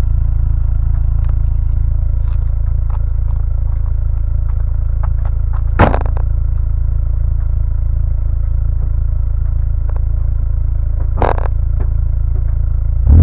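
Honda S2000's four-cylinder engine idling steadily through its exhaust, a deep even drone with no revving. Two short sharp clacks sound, one about six seconds in and one near the end.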